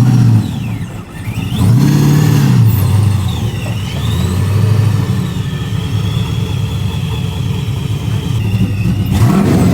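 Drift car engine revving hard, its pitch sweeping up and down and held high through the middle, with a high tyre squeal over it from a drift or burnout.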